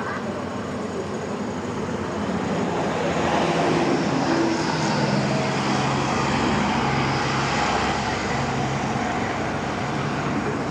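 A heavy vehicle engine running steadily, growing louder about two seconds in and staying up.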